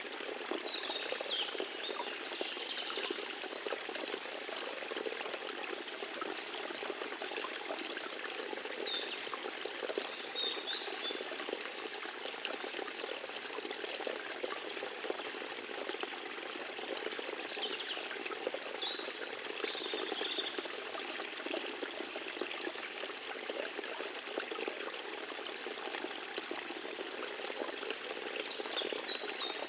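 Forest stream water trickling and babbling steadily. A few short, high bird chirps sound over it about four times.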